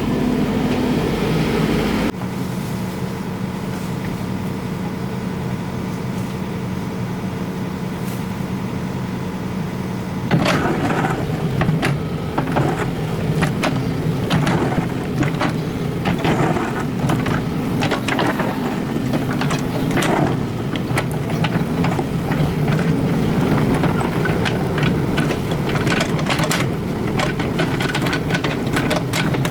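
Excavator's diesel engine running steadily. From about ten seconds in, it works under load, with many knocks and scrapes of digging over the engine.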